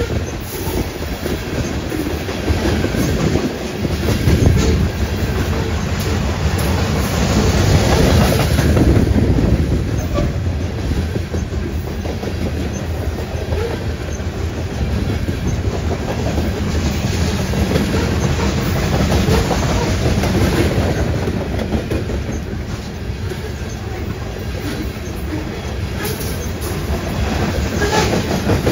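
Freight train cars rolling past, their wheels clicking and clattering over the rail joints in a steady rumble.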